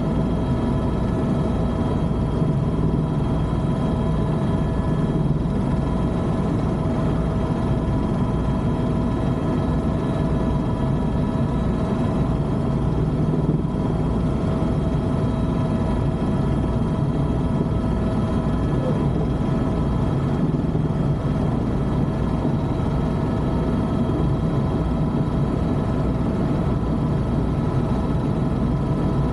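Helicopter in flight: steady rotor and turbine engine noise, a low pulsing rotor beat under a constant whine.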